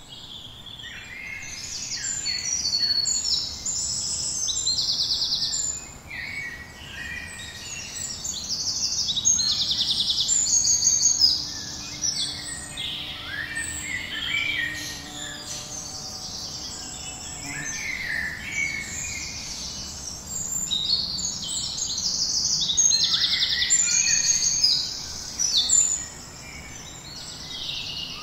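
Several songbirds singing at once, a dense chorus of high chirps and rapid trills that overlap without a break.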